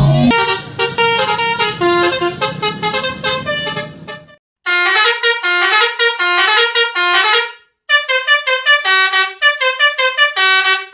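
Telolet musical horn playing a fast melody of short, rapid notes, in three phrases broken by two brief pauses, about four and a half and about eight seconds in.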